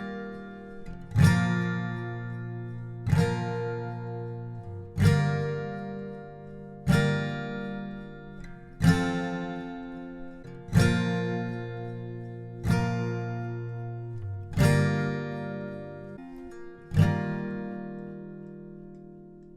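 Background music: slow acoustic guitar chords, one strummed about every two seconds and left to ring out. The last chord fades away near the end.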